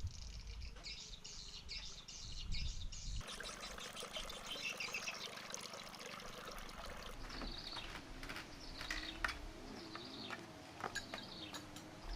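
Birds chirping with short, high calls over a faint steady background hiss.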